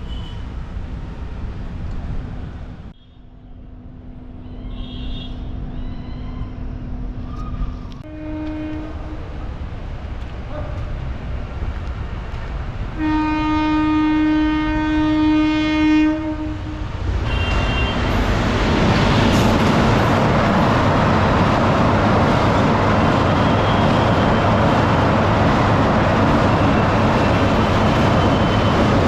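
Indian Railways locomotive horn sounding a short blast about eight seconds in and a long blast of about three seconds a little later, over a steady low hum from the approaching train. The train then passes close by with a loud, steady rumble of wheels on the rails that lasts to the end.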